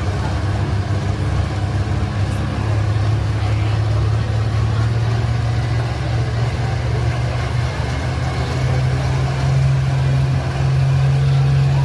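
Pulling tractor's diesel engine running hard, its pitch climbing slowly and steadily and its sound growing louder toward the end.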